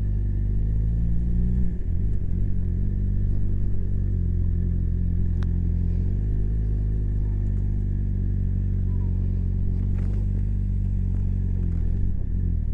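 Honda CBR600RR inline-four engine running steadily under way, heard from the motorcycle. The engine note shifts about two seconds in and again a few seconds later.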